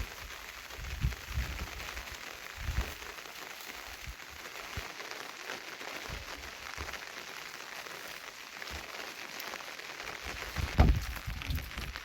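Steady rain falling, an even hiss, with a few low thumps about a second in, near three seconds and near the end.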